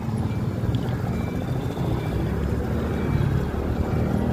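Steady low rumble of wind and road noise on a ride aboard a Yatri P1 electric motorcycle, with faint short high beeps repeating now and then.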